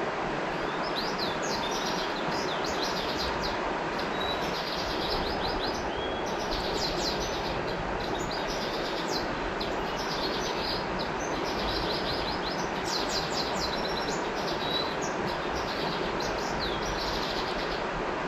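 River water flowing with a steady rush, with birds chirping over it in quick runs of short, high notes.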